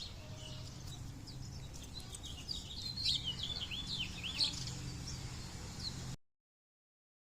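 Small birds chirping, with a quick flurry of short high chirps in the middle, over a steady low hum. The audio cuts out completely about six seconds in.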